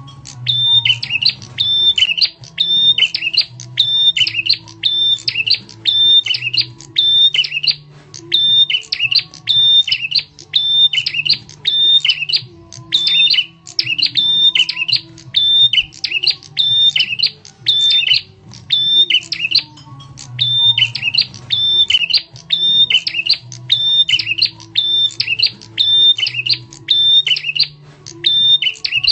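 Prenjak tamu (a prinia) giving its loud, sharp lure call: a short, high chattering phrase repeated over and over in quick succession, with a faint low hum underneath.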